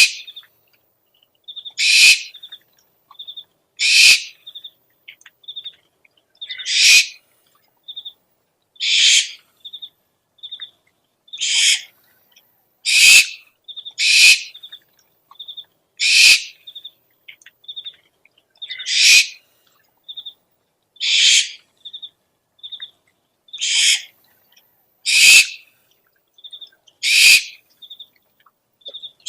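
Owl calls from a lure recording: a harsh, hissing screech about every two seconds, with short, high chirping notes, often in pairs, between the screeches.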